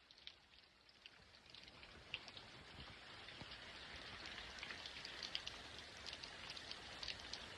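Rain falling, a faint patter of many small drop ticks that grows gradually louder.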